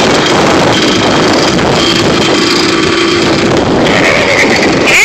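Dirt bike engine running steadily while riding, with wind rushing over the microphone.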